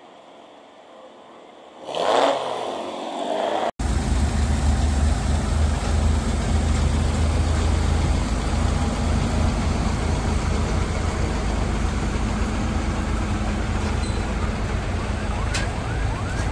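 A VW Beetle's engine revs up sharply for about two seconds as it launches off the drag-race start line. Then comes a steady, loud engine rumble with a deep hum.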